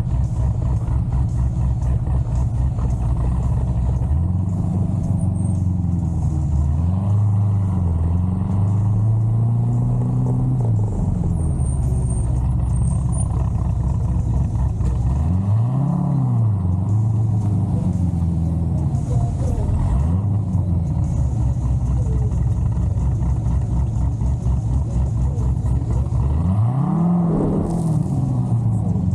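Big-cam LS7 7.0-litre V8 of a C6 Corvette Z06 idling with a choppy lope, revved in a cluster of short blips during the first third, then once around the middle and once near the end, the pitch rising and falling back to idle each time.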